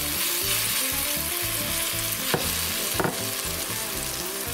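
Chopped onion, garlic and chipotle peppers sizzling in hot beef fat in a Dutch oven while a silicone spatula stirs flour and brown sugar into them, a steady frying hiss. There are two sharp clicks a little past halfway.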